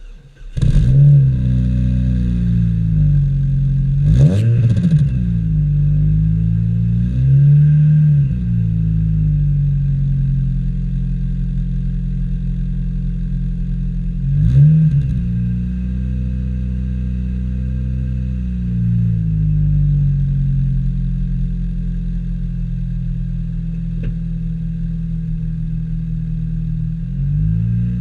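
Chevrolet Cobalt SS exhaust as the engine starts about half a second in and flares, then is revved briefly three or four times before settling into a steady idle.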